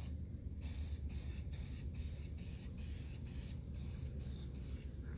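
Aerosol spray-paint can spraying a yard-tractor wheel in short hissing bursts, about two a second.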